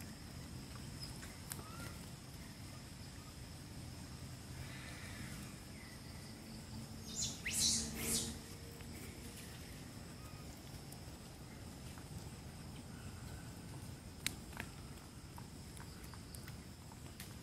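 Quiet outdoor ambience with a thin, steady high-pitched drone, broken about seven seconds in by a brief loud high animal call lasting about a second. A faint click comes near the end.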